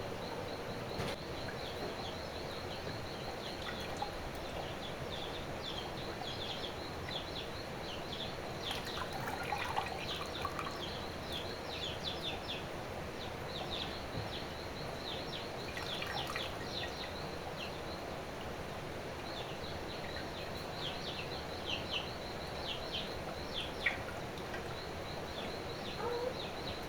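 Rural outdoor ambience: a steady wash of water-like noise, with many short, quick, high chirps from birds over a steady high-pitched drone.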